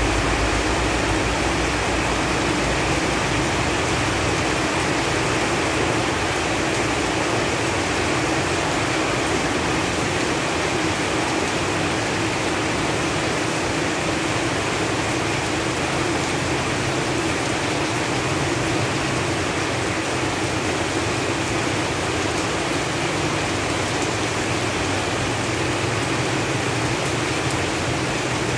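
Steady rain falling on leaves and foliage, an even wash of noise without separate drops standing out.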